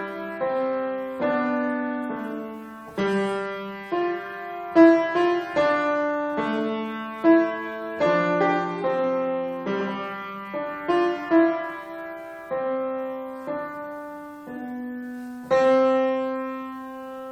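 Solo piano playing a slow, gentle melody over chords, each note struck and left to fade. Near the end a final chord is struck and held, ringing out.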